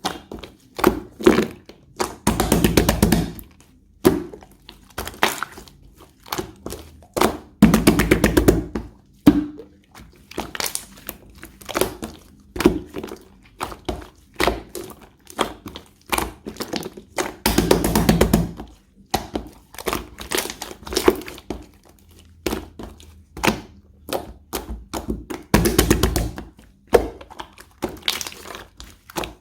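Clear slime being pressed and squeezed by hand, with rapid clicking pops of trapped air bubbles and a longer crackling squelch every few seconds.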